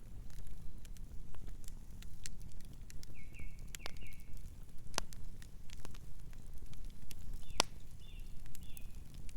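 Campfire crackling over a low, steady rumble of burning, with irregular snaps and two sharper pops, about halfway through and near the end. Soft short bird chirps come in two small groups, a few seconds in and again near the end.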